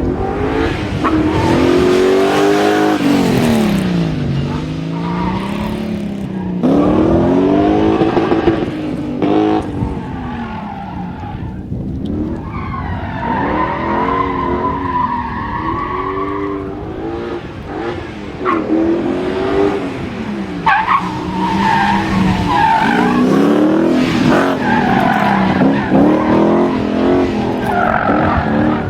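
Tuned Audi Quattro drifting: its engine revs up and down again and again under hard throttle, over the hiss of skidding tyres.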